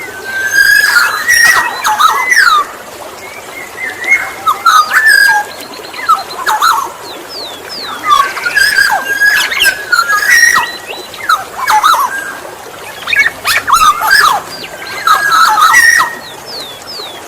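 Black-naped oriole (kepodang) singing: fluty whistles mixed with quick sliding, chattering notes, in bursts of one to three seconds with short pauses between.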